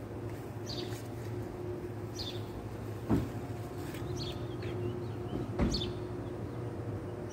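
Birds chirping, short high calls repeating about every second and a half, over a steady low mechanical hum. Two thumps land about three seconds in and again near six seconds.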